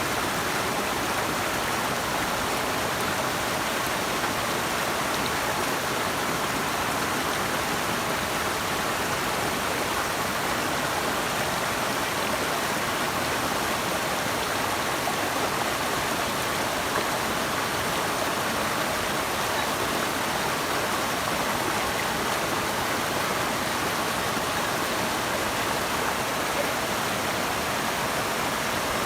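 Flowing water rushing steadily, an even hiss with no changes or separate splashes.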